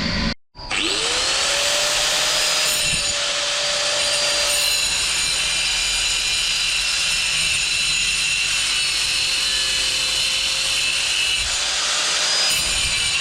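Electric power tool spinning up about half a second in, its pitch rising quickly and levelling off, then running steadily with a high whine as it works the material.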